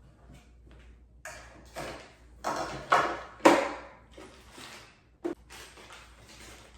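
Packaging being handled and unwrapped: a series of short rustling, crinkling bursts, the loudest about three and a half seconds in, with a short click a little after five seconds.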